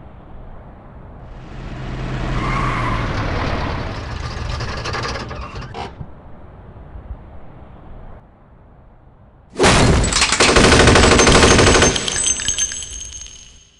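A car engine swells in as it drives up and then stops. About ten seconds in comes the loudest sound, a Tommy gun firing one long burst of about three seconds.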